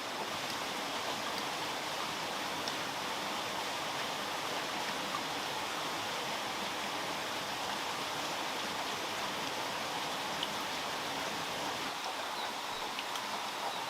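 Steady, even rush of water noise, with a few faint small clicks.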